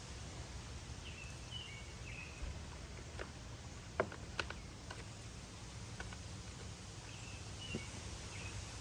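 A few light clicks and taps of small chainsaw parts being handled and fitted, the sharpest about four seconds in, over a steady low hum. Short bird chirps come about a second in and again near the end.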